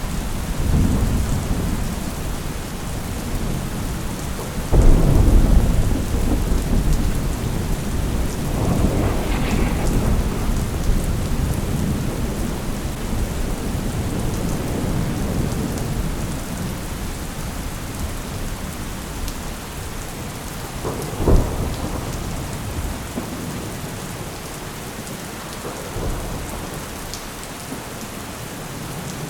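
Thunderstorm: steady rain with rolling thunder. A sudden loud clap about five seconds in rumbles on for several seconds, and another sharp crack comes about twenty seconds in.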